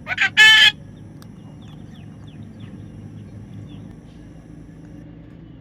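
A loud, short bird call right at the start: two quick notes and then one longer ringing note, lasting about half a second. Faint, brief chirps follow over a steady low background hum.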